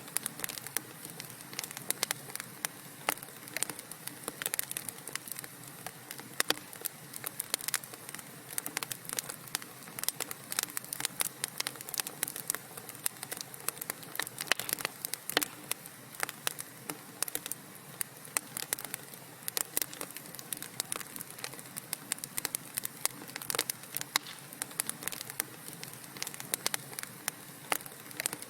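Burning wood crackling: dense, irregular pops and snaps, several a second, over a soft steady hiss.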